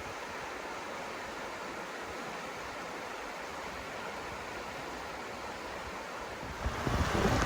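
River water rushing steadily. Near the end, wind gusts start buffeting the microphone and the sound grows louder and rumbling.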